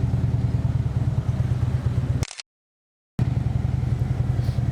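Harley-Davidson motorcycle's V-twin engine running steadily while riding, its sound sitting mostly in the low range. The sound cuts out to silence for about a second just past the middle, then picks up again.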